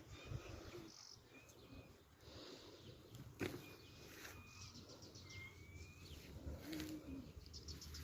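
Faint birds chirping, a few short scattered calls, over a quiet outdoor background, with a single sharp click about three and a half seconds in.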